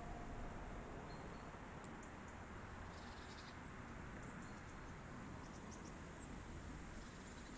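Outdoor ambience: a steady low hiss and rumble, with faint, short, high bird chirps now and then.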